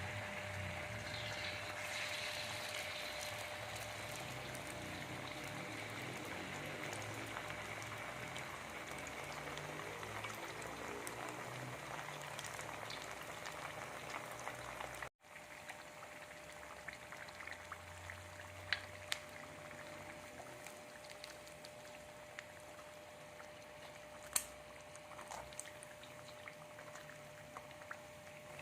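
Liquid bubbling steadily in a pot as yams cook, with a faint steady hum. About halfway through there is a sudden cut, after which the bubbling is quieter, with scattered small pops and crackles.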